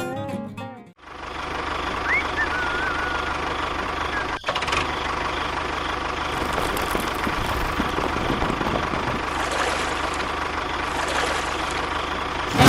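Music cuts off about a second in, then an engine runs steadily at an even speed.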